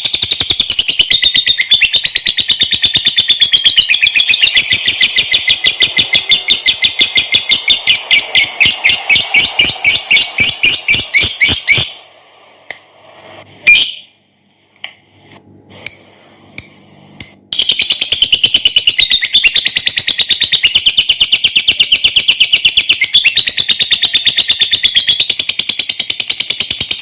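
Lovebird giving its long 'ngekek' song: a fast run of shrill, rapidly repeated chattering notes. It breaks off about twelve seconds in for a few scattered short chirps, then resumes about five seconds later and runs on.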